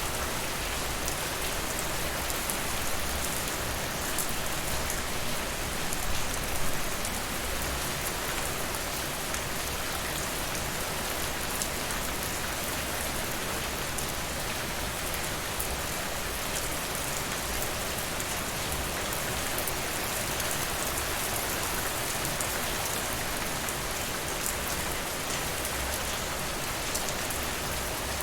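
Steady rain falling: an even, unbroken hiss of rain on a surface, with scattered faint ticks of individual drops.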